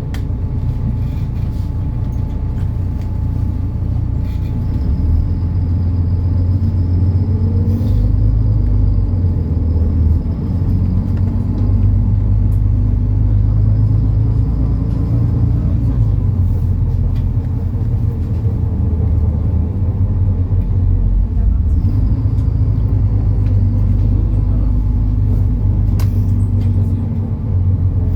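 MAN Lion's City NL293 city bus running with a steady low rumble from its diesel engine and drivetrain. A faint high whine comes in about five seconds in and returns briefly later.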